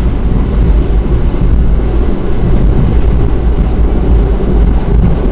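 Steady, loud rumble of a passenger train running at speed, heard from inside the coach: wheels on rail and running gear.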